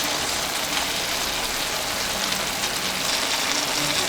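Spicy chicken and vegetables in a frying pan, sizzling steadily.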